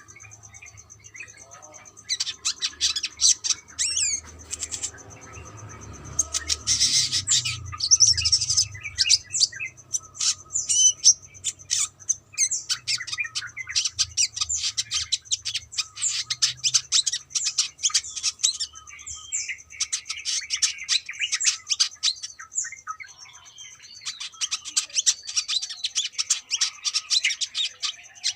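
Brown-throated sunbird singing: long runs of rapid, high, sharp chirps and twitters in several phrases, with short pauses between them.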